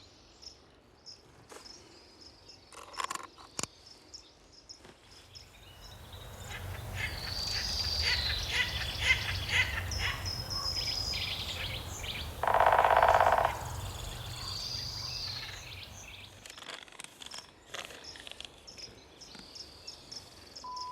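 A natural soundscape of insects chirping and birds calling. About five seconds in it swells into a dense chorus of bird calls over a low rumble, with a loud buzzing call lasting about a second near the middle, then thins back to sparse insect chirps.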